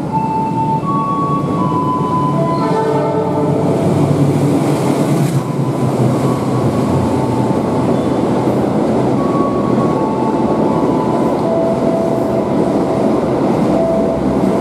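Electric commuter train running past close below, a loud steady rumble of wheels on rails that is loudest about four to five seconds in. Over it run whining tones that change pitch in steps.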